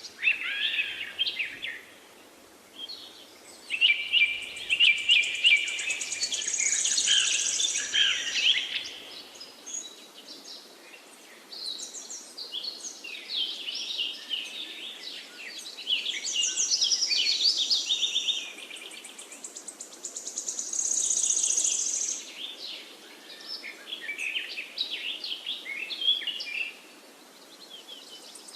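Songbirds singing: dense runs of rapid high chirps and trills, several songs overlapping in bursts over a faint steady hiss, with short lulls about two seconds in and near the end.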